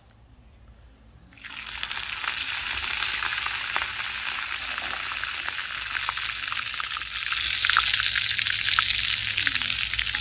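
Green garlic and red chili powder sizzling hard in hot oil in a small iron tadka pan over a wood fire: the tempering stage of an Indian dish. The sizzle starts suddenly about a second and a half in and gets somewhat louder near the end.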